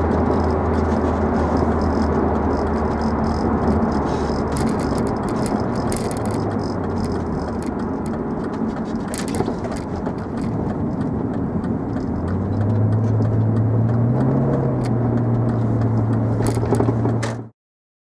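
BMW E39 with a quad exhaust, running with a low, steady exhaust drone. The drone fades about five seconds in, comes back and rises a little in pitch about twelve seconds in, then holds until the sound cuts off abruptly just before the end.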